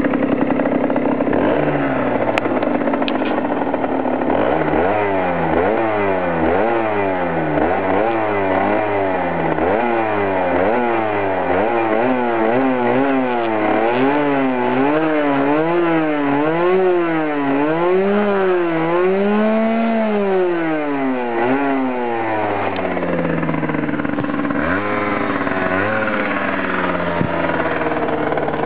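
Yamaha DT50X's 50cc two-stroke single-cylinder engine on its original exhaust, warmed up, revved over and over. At first it blips quickly, about once a second; then the revs rise and fall more slowly. Later it settles back to idle, with a couple of short blips near the end.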